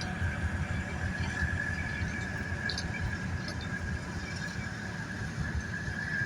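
Preserved diesel locomotives D9551 and D4106 working a goods train: a low, pulsing engine rumble with a steady high-pitched squeal, and a few faint clicks.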